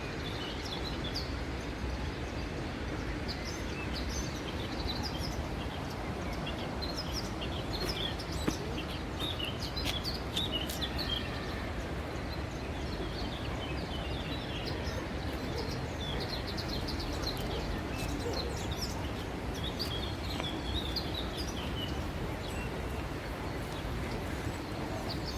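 Many short bird chirps, scattered and overlapping, over a steady background of outdoor noise.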